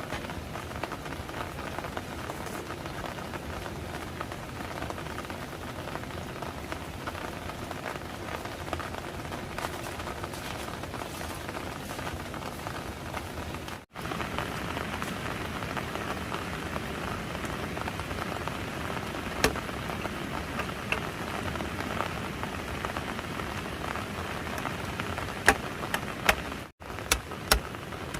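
Steady rain falling, a dense even patter, with a few sharper drips or taps in the last few seconds. The sound cuts out briefly twice.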